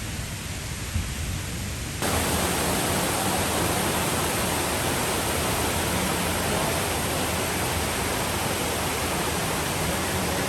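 Steady rush of flowing water, which jumps louder about two seconds in.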